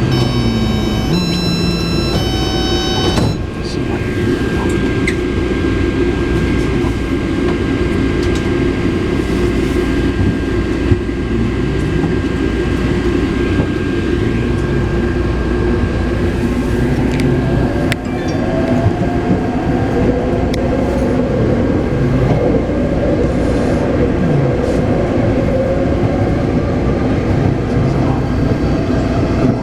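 Taipei Metro C381 train: a short electronic chime of several stepped tones, then the train running on the rails with a steady low rumble. In the second half the traction motor whine glides up in pitch as it accelerates.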